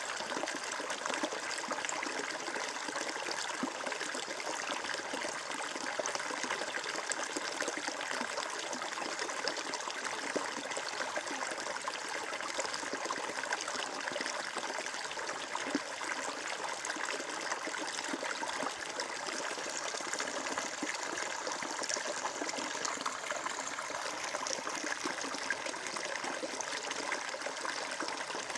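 Water flowing and trickling steadily, an even splashing rush.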